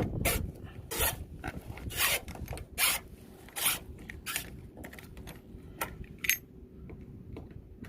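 Irregular scraping strokes and clicks of a hex key turning in the split air conditioner's service valves to open them fully.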